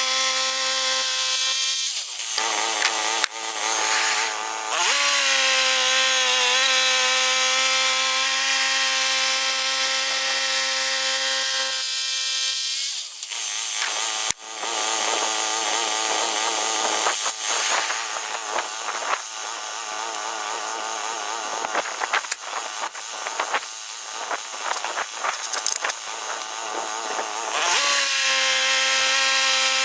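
Gas engine of a Woodland Mills HM122 portable band sawmill running steadily at speed while the band blade cuts through a large pine log. Its note drops about two seconds in and comes back up about five seconds in. Through the middle it goes quieter and more uneven, with scattered clatter, and it comes back to the steady high note near the end.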